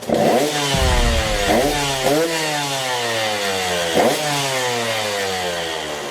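Dirt bike engine revving: the throttle snaps open four times, at the start, at about one and a half seconds, just after two seconds and at four seconds, and the pitch falls away slowly after each.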